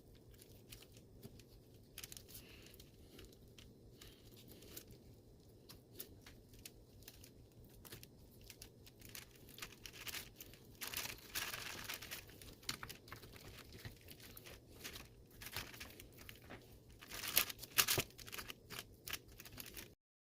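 Knife cutting and scraping meat off the bone of a deer hindquarter: irregular soft tearing and scraping sounds with small clicks, louder around the middle and again near the end.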